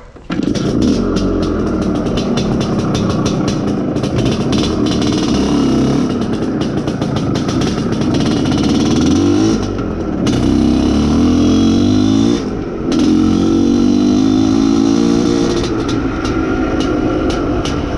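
IZh Planeta Sport motorcycle's single-cylinder two-stroke engine running under way while it is being run in. Its note rises and falls, dipping briefly twice about ten and twelve and a half seconds in.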